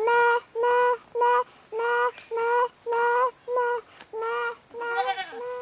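A child calling "meh, meh" over and over at one steady, high pitch, imitating a goat's bleat to draw the goats closer: about a dozen short calls, roughly two a second.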